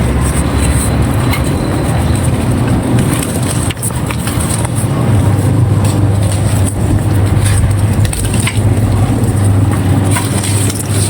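Dried handmade red sand being crumbled and crushed by hand: a dense, continuous run of soft yet crunchy crackles, over a steady low hum.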